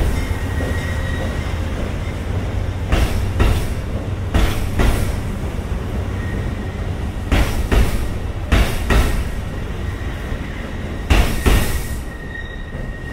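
CT Rail passenger train's coaches and cab car rolling past on the rails: a steady low rumble with pairs of sharp clicks recurring every one to three seconds as the wheels cross rail joints, and a faint thin high wheel squeal.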